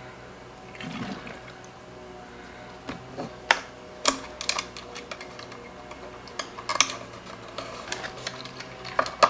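Gasoline being poured and sloshing in plastic containers, with a string of sharp clicks and knocks from handling them in the second half.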